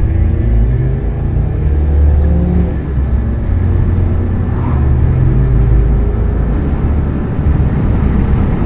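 Nissan Versa's 1.8-litre four-cylinder engine under hard acceleration, heard from inside the cabin. Its pitch climbs, drops back once about three seconds in at a gear change, then climbs again before levelling off.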